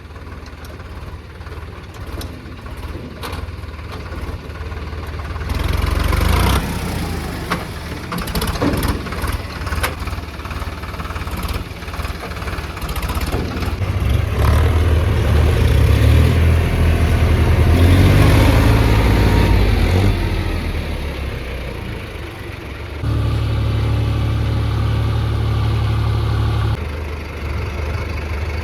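Diesel tractor engine running, revving up under load for several seconds in the middle, then holding a steady, louder note. A few sharp knocks come in the first third.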